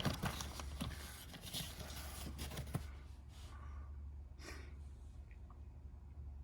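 Box and packaging being handled, with scattered light clicks and rustling that thin out after about three seconds, leaving a few faint taps over a steady low hum.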